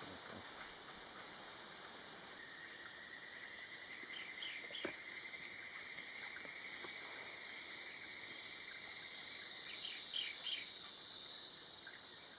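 Steady high-pitched drone of a forest insect chorus that swells about eight to eleven seconds in, with a faint continuous trill and two short runs of three or four quick bird chirps.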